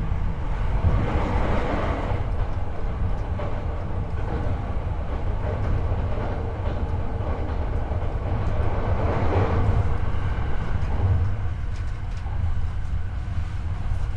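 Running noise of a Hankyu 8300 series commuter train, heard from the floor above a bogie: a steady rumble of wheels on rails that swells twice, about a second in and again about nine seconds in.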